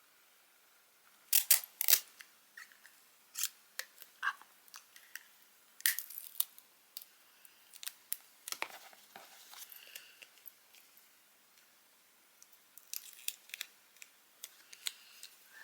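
Scattered sharp clicks, taps and crinkles of small objects being handled close by, loudest in a couple of clicks about a second and a half in, with a lull of a few seconds before more clicks near the end.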